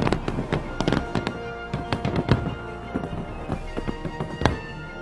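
Aerial fireworks shells bursting in quick, uneven succession, with sharp bangs, the loudest about two seconds in and near the end. Music plays underneath.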